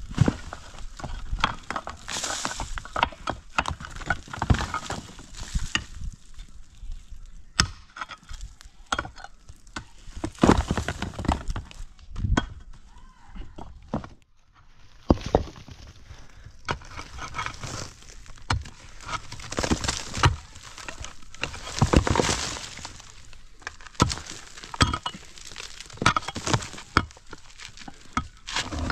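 Irregular knocks and impacts, repeated throughout, pausing briefly about halfway.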